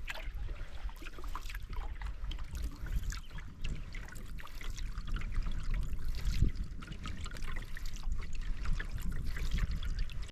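Water trickling and splashing against a canoe as it is paddled, many small drips and splashes over a steady low rumble. The sound cuts off suddenly at the end.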